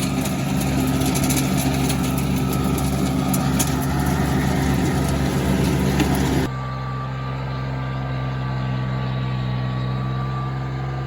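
RK25 compact tractor's engine running steadily while driving a 6-foot PTO rotary tiller, with a noisy clattering layer over the engine note. About six and a half seconds in, the sound changes abruptly to a cleaner, steady engine note with a faint high whine.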